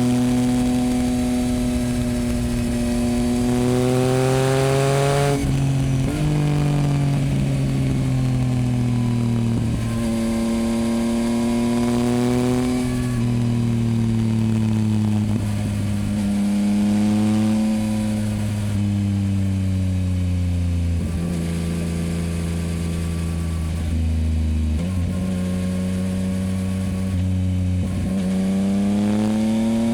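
2024 Yamaha MT-09's three-cylinder engine through a Dominator HP8 aftermarket exhaust, under way: revs climb and drop sharply at upshifts about five and ten seconds in, sink lower through the middle, and climb again near the end.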